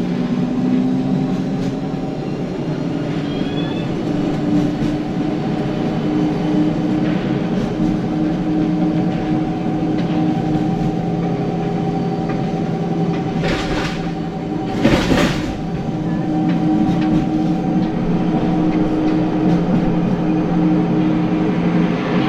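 Inside a heritage W-class City Circle tram on the move: a steady hum and whine from the motors and gearing over rumbling and rattling, rising in pitch over the first couple of seconds as it pulls away from a stop. Two short, loud, noisy bursts come about 14 and 15 seconds in.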